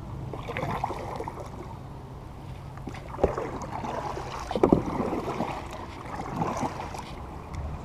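Kayak paddling: the paddle dipping and splashing in the water with steady low noise underneath, and a few sharp knocks, the loudest about three and five seconds in.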